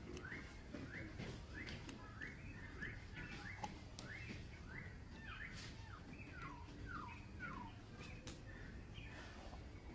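A bird calling in a quick series of short rising chirps, about two a second, changing to falling notes about halfway through, over a low steady background rumble.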